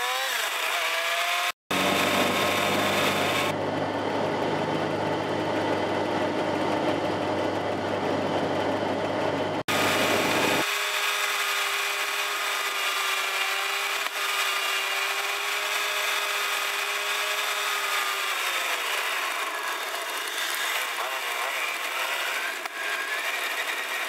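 Fiat 500's small air-cooled two-cylinder engine heard from inside the cabin, sped up with the time-lapse footage. Its pitch climbs, holds steady while cruising and drops as it lifts off and changes gear, with abrupt jumps where the footage is cut.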